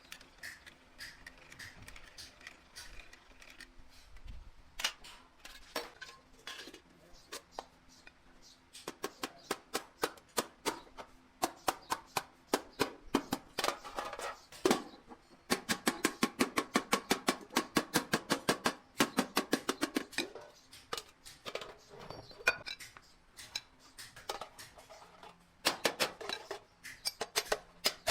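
Hammer blows on sheet metal: scattered taps at first, then quick, regular strikes about four or five a second, in runs in the middle and near the end.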